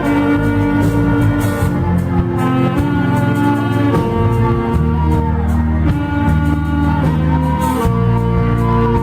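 Church orchestra playing an instrumental hymn: sustained, slow-moving chords over a bass line.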